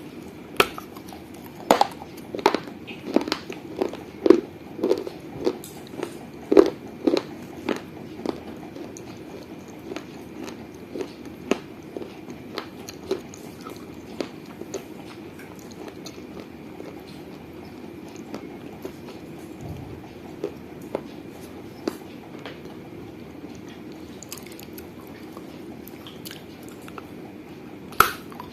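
Mouth biting and chewing pieces of a baked-clay mini piggy bank, with sharp, gritty crunches close to the microphone. The crunches come thick and fast for the first eight seconds or so, thin out to occasional bites, and pick up again near the end.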